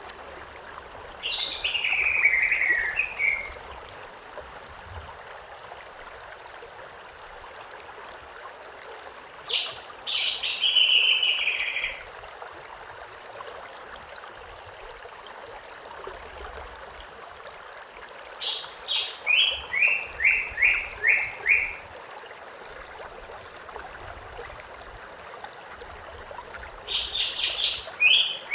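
A songbird sings the same short phrase four times, about every eight or nine seconds. Each phrase is a few high notes followed by a quick run of repeated notes that steps down in pitch. Under it runs the steady rush of a stream.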